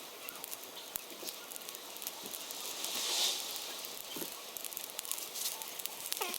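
A charcoal fire burning and crackling, with many scattered small pops and a soft hiss that swells about three seconds in.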